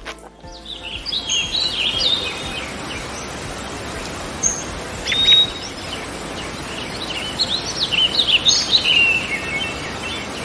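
Small birds chirping and twittering in quick runs of short calls over a steady background hiss, busiest in the first few seconds and again near the end, with one brief held note about halfway through.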